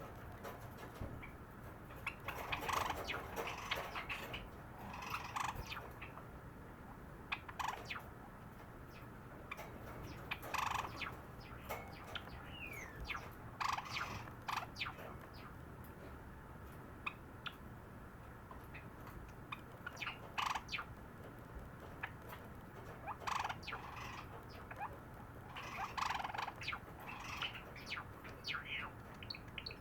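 A sakura Java sparrow singing: short bursts of clicking, chirping notes every few seconds, with an occasional sliding whistle.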